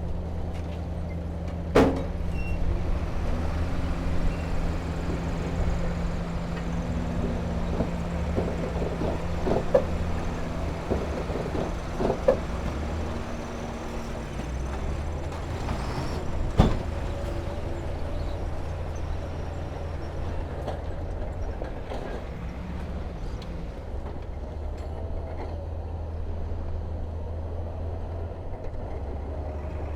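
Diesel engine of heavy earthmoving machinery running steadily under working load, its pitch shifting now and then, with a few sharp knocks from the work, the loudest about two seconds in and again about halfway through.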